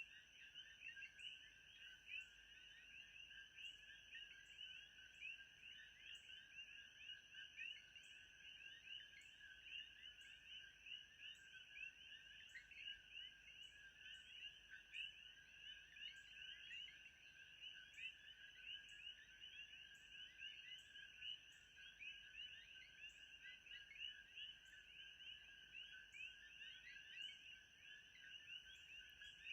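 Faint, steady ambient chorus of many rapid chirping calls, like frogs or insects calling together, in two high pitch bands. A thin steady high tone and a light tick about once a second run under it.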